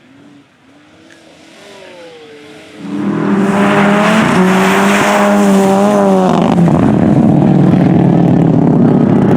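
Rally car's engine at full throttle, approaching and passing: faint at first and climbing in pitch, then suddenly loud about three seconds in, holding high revs with brief dips in pitch, before turning to a rougher rush as it goes by.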